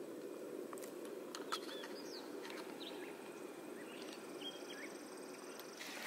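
Outdoor ambience: a few short, scattered bird chirps over a steady low background noise, with a thin high steady trill joining about halfway through.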